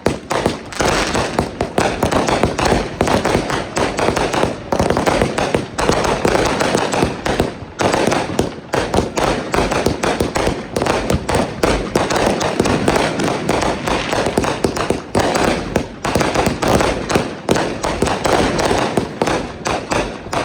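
Consumer fireworks going off in rapid succession: a dense, continuous barrage of bangs and crackling, with a few brief lulls.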